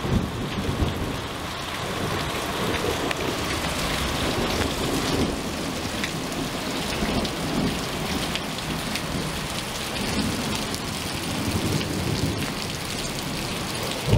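Heavy rain pouring down steadily in a thunderstorm, with low rumbles of thunder.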